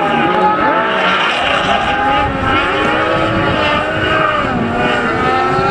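Several racing motorcycle engines revving hard together, their notes rising and dropping as they change gear and overlapping one another.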